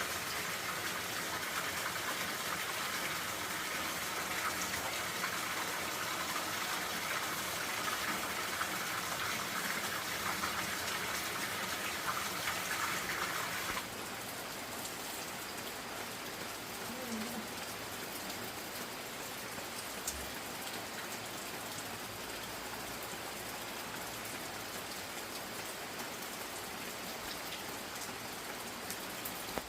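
Steady hiss of water, like rain or running water, with no voices. About fourteen seconds in, the sound changes abruptly and becomes a little quieter and more even.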